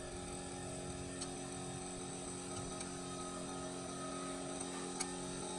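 Steady hum of a running machine, with a few faint light clicks.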